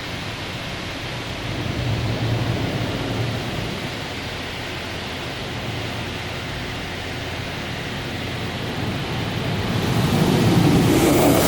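LaserWash 4000 touchless car wash spraying water over the car: a steady rushing hiss that grows louder and brighter about ten seconds in.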